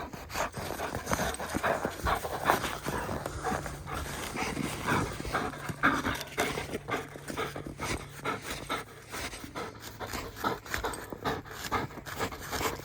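German Shepherd panting hard while tugging on a stick, with many short scuffling noises.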